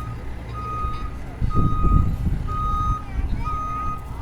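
Fire truck's reversing alarm beeping about once a second, each beep about half a second long, over the truck's engine, which rises in level for about a second starting about one and a half seconds in.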